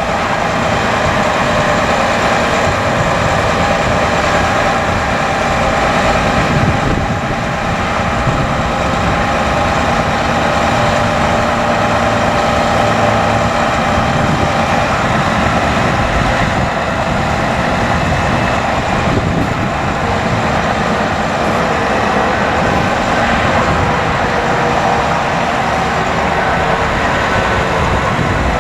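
Diesel engine of a 2008 Hino 338 bucket truck running steadily at raised idle with the PTO engaged to drive the boom's hydraulics, with a constant whine over the engine's rumble.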